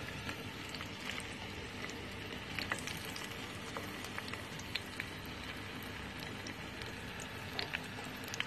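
Eggplant (brinjal) pieces frying in a few tablespoons of hot oil in a frying pan: a steady sizzle with scattered sharp crackles and pops.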